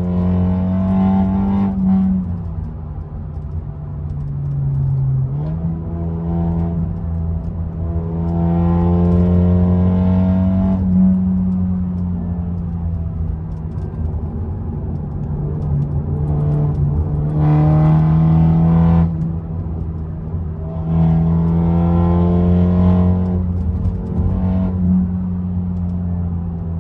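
BMW four-cylinder engine and aftermarket exhaust under way, pulling hard several times with rising pitch and stepping down at short-shifted gear changes, running steadier between pulls.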